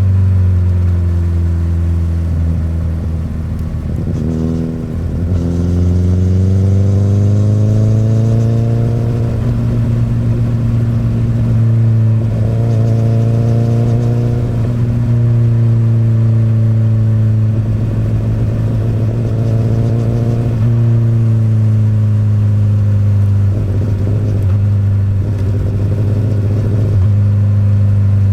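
Honda CBR1000RR SC59 inline-four running through an Akrapovic exhaust, under way on the road. The engine note rises several times as the rider accelerates and falls back between as the throttle is eased, with a brief dip about four to five seconds in.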